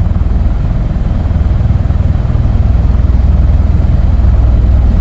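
Marine Corps V-22 Osprey tiltrotor departing: a loud, steady deep drone of its rotors and engines with a rapid low pulsing.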